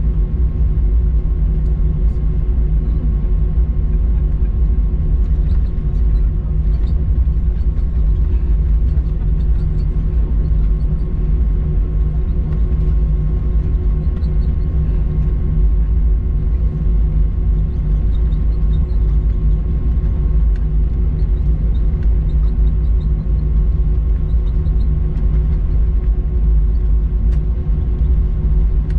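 Cabin noise inside an Airbus A321-200 taxiing after landing: a steady low rumble from the engines at idle and the rolling airframe, with a constant hum on top.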